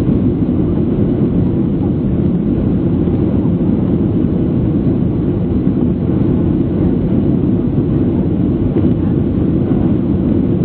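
Steady roar of a Boeing 737-800's jet engines and rushing air, heard from inside the passenger cabin, deep and unchanging.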